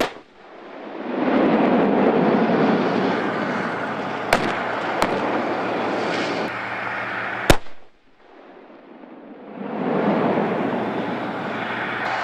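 Weapons fire on a live-fire range: three sharp reports, two close together a few seconds in and a louder one later, over a steady rushing noise. After the loudest report the sound briefly drops away and then swells back.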